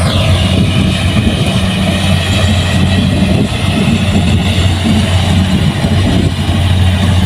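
Kubota rice combine harvester running steadily, a loud, even engine hum. A high whine drops in pitch right at the start.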